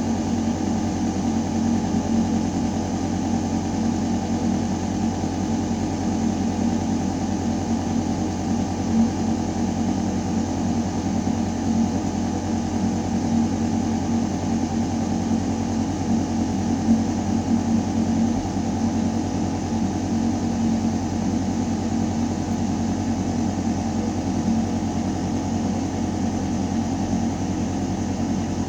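Building ventilation system running steadily: a deep, constant mechanical hum under an even rush of air moving through metal ductwork.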